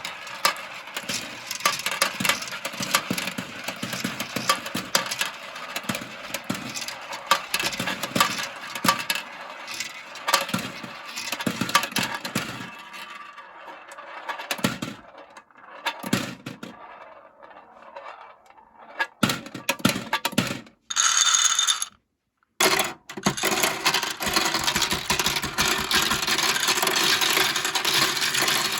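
Marbles rolling and clacking down plastic marble-run slopes: a dense clatter of clicks that thins out and quietens midway, a short ringing sound about 21 seconds in, two brief cuts to silence, then a steady rattle of many marbles.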